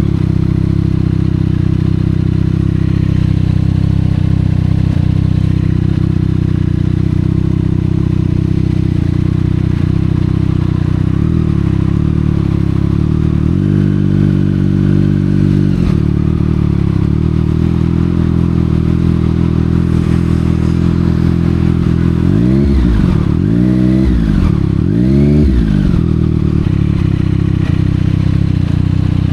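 765R motorcycle with a Yoshimura aftermarket exhaust, running at a steady low engine note. It lifts briefly about halfway through, then gives three quick throttle blips, each revving up and dropping back, near the end.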